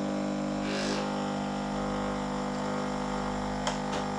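Pod coffee machine's pump running with a steady hum as it pushes hot water through the coffee pod and dispenses coffee into the cup.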